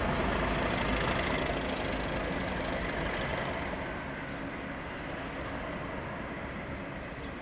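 Train passing on the line, its rumble fading steadily as it draws away.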